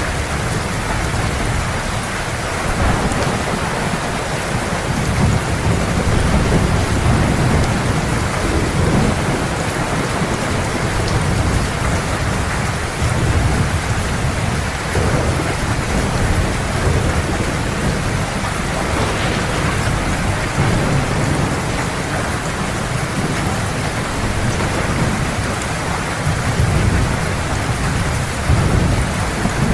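Heavy rain falling steadily in a thunderstorm, with low rumbles of thunder swelling and fading underneath.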